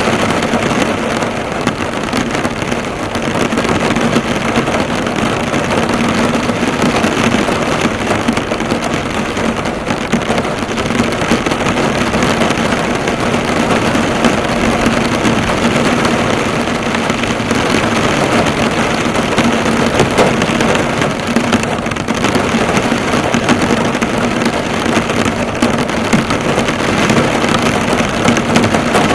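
Heavy rain falling on a car, the drops bouncing off the bonnet: a dense, steady patter without a break.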